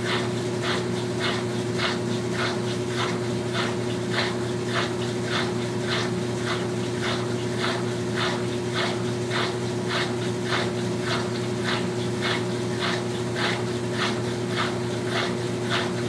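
Brastemp Tira Manchas Pro 12 kg washing machine running, a steady motor hum under a rhythmic swishing about three times a second.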